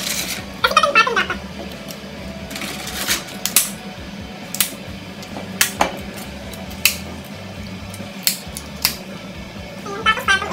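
Scattered sharp clicks and knocks of dry lasagna sheets and a serving spoon tapping against a metal baking dish and a cooking pot as a lasagna is layered, over a steady low hum.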